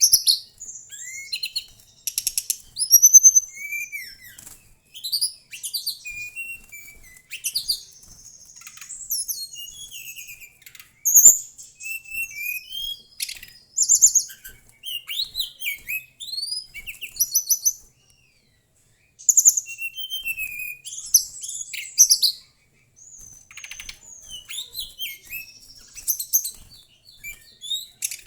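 Mangrove blue flycatcher singing a loud, fast, varied song: high whistled notes that rise and fall, rapid trills and repeated short phrases, broken by a couple of brief pauses.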